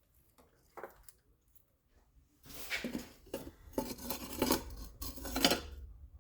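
Metal tools and engine parts clinking and clattering as they are handled while the intake is taken apart: a few light clicks, then about three seconds of busy rattling with several sharper knocks, loudest near the end.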